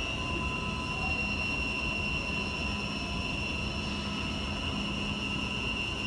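Railway station ambience: a steady high-pitched electrical whine with fainter tones over a low rumble, unchanging throughout.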